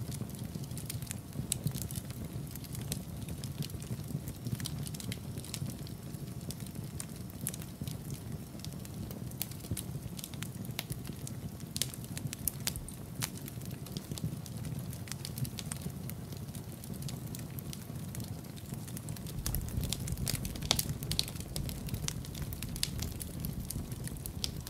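Wood fire crackling in a fireplace: a steady low rumble of the flames with many sharp pops and snaps scattered throughout. The low rumble grows fuller about three quarters of the way through.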